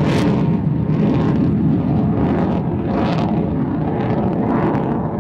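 USAF Thunderbirds F-16 Fighting Falcon jet engine running in flight: a loud, steady low rumble with hissy swells coming and going every second or two.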